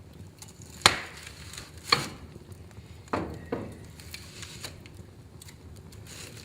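Wood fire in a fireplace crackling, with four sharp pops in the first few seconds over a low hiss and scattered small ticks.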